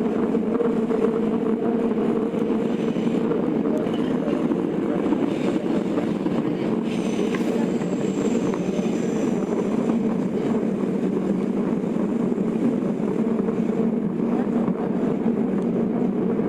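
Tokyo Metro 02 series subway car running at speed, heard from inside the car: a steady rumble of wheels on rail. Faint high tones come in briefly about halfway through.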